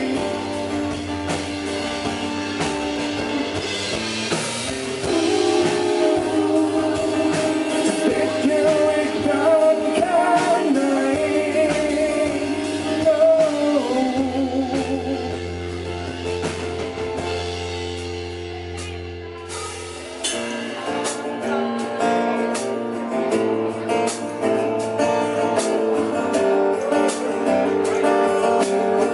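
Rock band playing an instrumental section of a song, a wavering lead guitar melody over guitars and drums. The band drops to a quieter, sparser passage about halfway through, then comes back in full about two-thirds of the way in.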